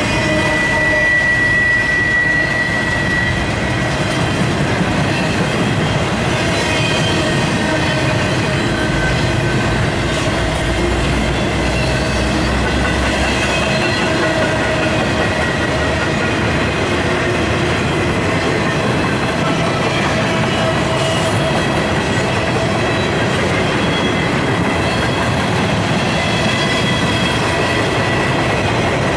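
Freight train of empty bare-table intermodal flatcars rolling past: a steady rumble of steel wheels on rail with clickety-clack and faint whistling squeal tones from the wheels. About a second in, a high wheel squeal holds for about two seconds.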